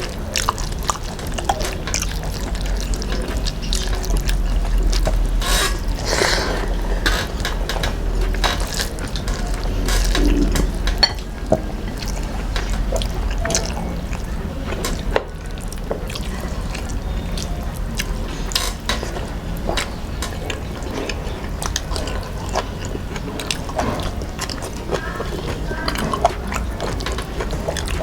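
Wet sounds of someone eating close to the microphone: chewing and smacking, with many small irregular clicks.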